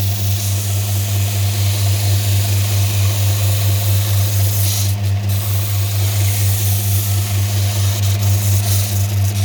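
Kraton WMS-350-150 grinding machine running: its electric motor gives a loud, steady low hum under a constant hiss. The high hiss changes briefly about five seconds in and again near the end.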